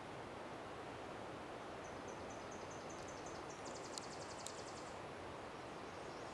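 A small songbird singing high and thin: a run of short repeated notes, about five a second, turning about three and a half seconds in into a fast buzzy trill, over a steady outdoor hiss. Two faint ticks sound during the trill.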